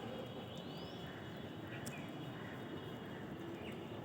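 Outdoor morning ambience: a steady background rush with a bird's short rising call about half a second in and a faint click near the middle.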